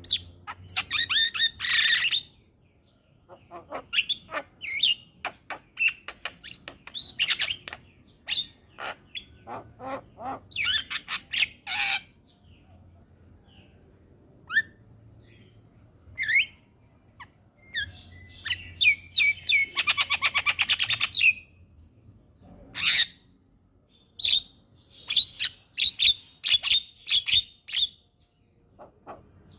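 Javan myna (jalak kebo) singing: clusters of varied chirps, whistles and harsh squawking notes broken by short pauses. Two thirds of the way through comes a fast rattling trill, and near the end a rapid series of sharp notes.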